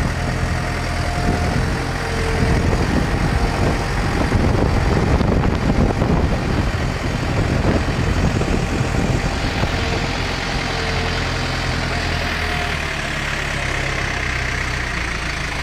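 Tractor engine running, louder and rougher for the first several seconds, then settling to a steady idle.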